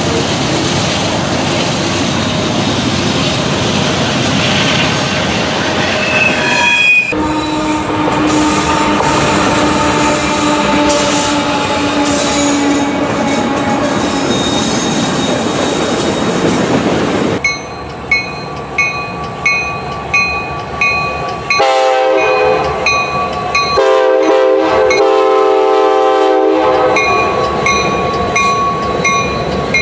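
Trains: a train rolling past with a steady rumble of wheels on rail, then, from about seven seconds in, a locomotive horn sounding long. Later an evenly repeating ringing, about one and a half strikes a second, with another multi-note horn blast sounding over it in the middle.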